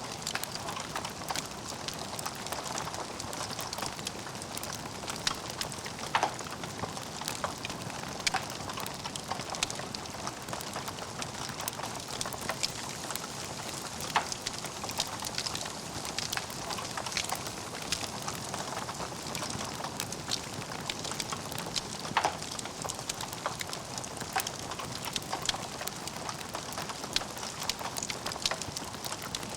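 Wood fire burning in a fireplace: a steady hiss of crackling, with frequent small snaps and a few sharper pops from the burning logs.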